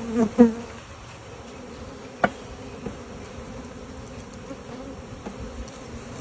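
Honeybees buzzing in a steady hum just after being shaken out of their shipping box into a new hive. A few single bees buzz louder in the first half second, and there is one short knock about two seconds in.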